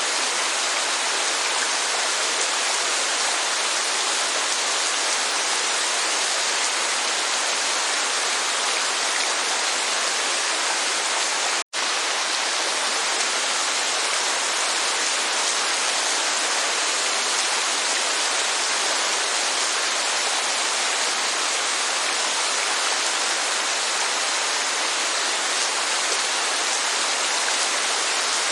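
Steady rushing of rain and a waterfall, an even hiss of falling water. It cuts out for an instant about twelve seconds in, then resumes unchanged.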